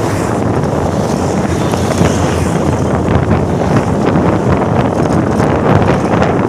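Loud, steady wind noise buffeting the microphone over the low rumble of a moving vehicle.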